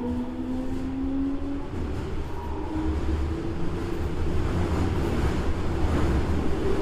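Toei Asakusa Line 5300-series subway train running under power: motor whine tones rising slowly in pitch and fading out over the first few seconds, while the wheel and track running noise grows steadily louder.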